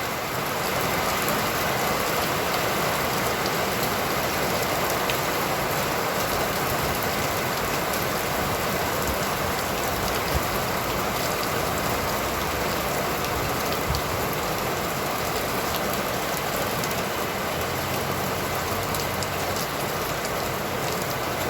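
Steady heavy rain falling and pattering on surfaces, with scattered small drop clicks.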